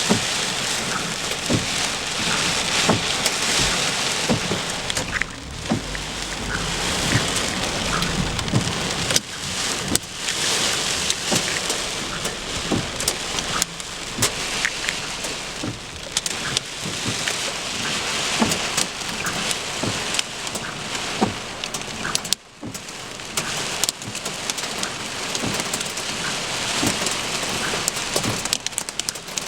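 Heavy rain pelting down, a dense steady hiss with many sharp taps of drops striking a hard surface. A low rumble of thunder rolls through about seven seconds in.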